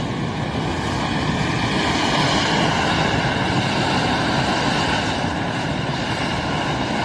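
A machine running steadily: a dense, even, unchanging engine-and-blowing noise.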